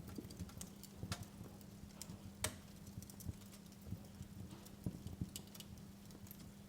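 Wood fire in a fireplace crackling: irregular snaps and pops over a low rumble, with the sharpest pop about two and a half seconds in.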